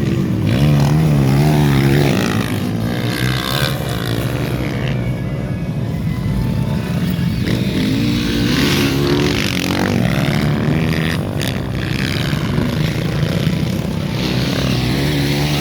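Dirt-bike engines revving on a velocross track. The pitch rises and falls as the throttle opens and closes, loud and continuous.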